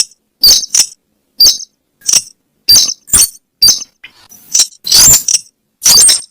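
Recorded lure call of the weris (slaty-breasted rail): a run of sharp, short, high notes, about two a second, with longer, fuller notes near the end.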